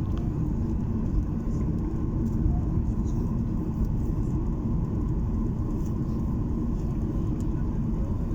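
Steady low rumble of an airliner's engines and airflow heard inside the passenger cabin during takeoff, with no breaks or changes.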